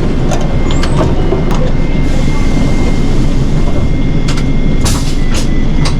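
Cabin sound of a Nishitetsu city bus under way: a steady low rumble of engine and road, with scattered clicks and rattles from the interior.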